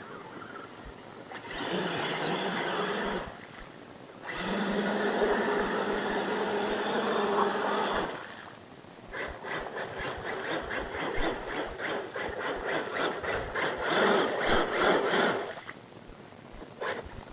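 RC mud truck's electric motor whining under throttle in two bursts, a short one and then one about four seconds long, followed by several seconds of rapid stuttering throttle blips.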